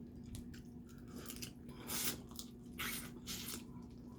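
Close-up eating sounds: snow crab and crawfish shells cracking and being sucked, with wet chewing, in a few short crunchy bursts, the loudest about two seconds in and again near three seconds.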